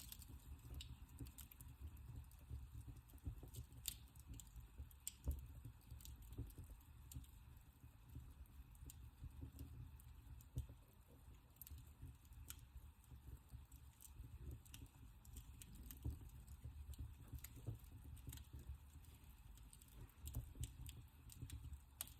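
Wood fire in a fireplace crackling faintly, with irregular small snaps over a low steady rumble.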